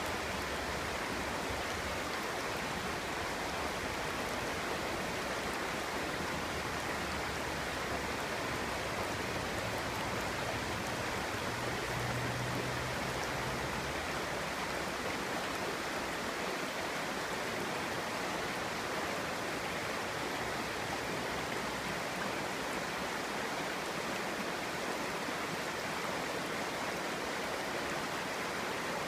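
Clear stream water babbling and flowing over stones, a steady even rush.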